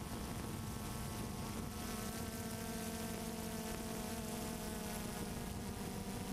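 Multirotor drone's electric motors and propellers humming steadily, with several pitches that drift slightly.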